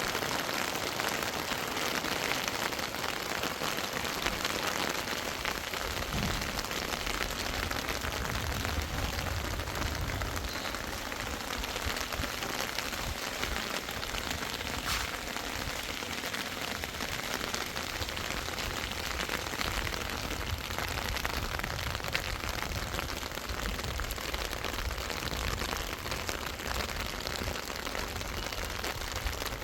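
Heavy rain falling steadily, an even hiss of drops, with a low rumble swelling for a few seconds near the middle.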